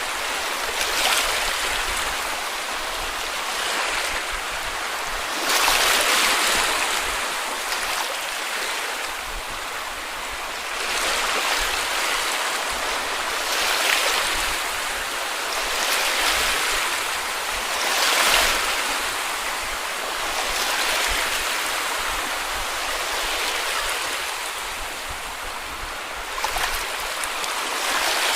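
Small sea waves breaking and washing up on a beach, a soft surge of surf every two to three seconds over a steady hiss of water.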